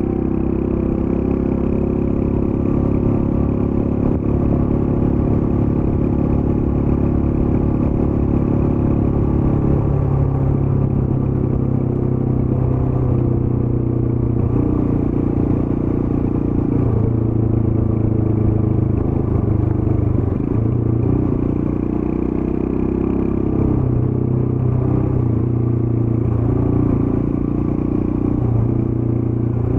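Royal Enfield Scram 411's single-cylinder engine running through its stock exhaust while being ridden. The note holds steady for about ten seconds, then rises and falls several times with throttle and gear changes.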